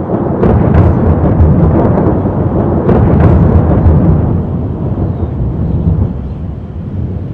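Rolling thunder: a loud, low rumble that builds over the first few seconds and then fades away.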